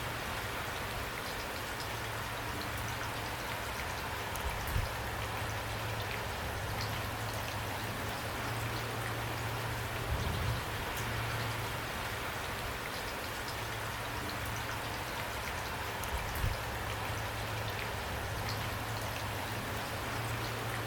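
Steady rain falling on a surface, a dense patter of drops with fine ticks, and three louder low thuds spaced about six seconds apart.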